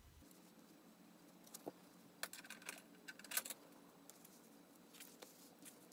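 Faint scissors snips and rustling as a strip of fabric mending tape is cut, in a cluster of short clicks about two to three and a half seconds in and once more near the end, over a steady low hum.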